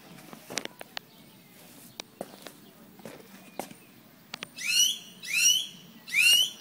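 A bird calls loudly three times near the end, each call a short, sharply rising note. Before the calls there are scattered light clicks and knocks.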